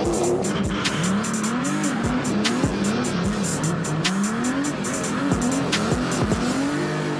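Car engine revving up and dropping back again and again, as under repeated throttle while drifting, with tyre squeal and music underneath.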